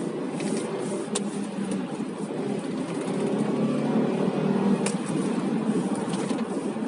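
Car engine and road noise heard from inside the cabin while driving, a steady hum that swells a little midway, with two faint clicks.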